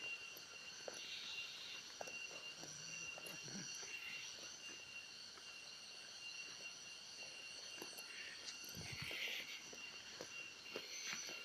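Steady chorus of insects: several high, continuous tones holding without a break, with a few faint scattered clicks.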